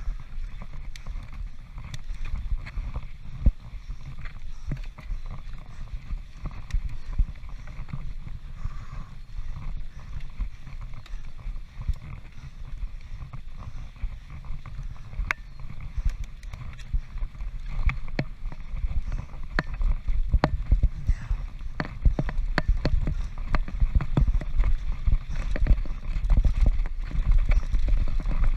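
Mountain bike descending a rough trail at speed, heard from a GoPro mounted on the bike or rider: a steady low rumble of wind buffeting the microphone, with frequent sharp rattles and knocks from the Transition Patrol's chain and frame over rocks. It gets louder in the second half.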